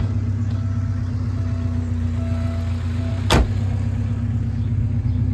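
1987 Alfa Romeo Spider Graduate's four-cylinder engine idling steadily. A repeating short beep sounds over it until a single sharp thunk about three seconds in.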